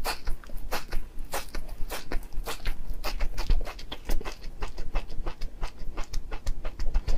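Close-miked chewing of a mouthful of fresh corn silk: a fast, irregular run of wet smacks and small crackling clicks from the mouth.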